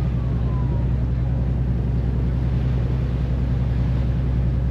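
Tour boat's engine running steadily: a constant low hum with a hiss of noise over it.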